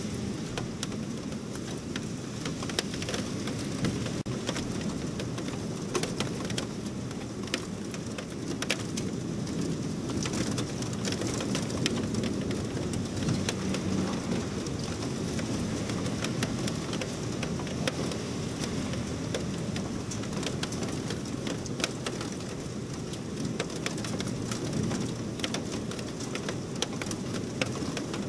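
Heavy thunderstorm rain pouring steadily, with a dense patter of sharp ticks from drops striking the window and screen close by, over a low rumble.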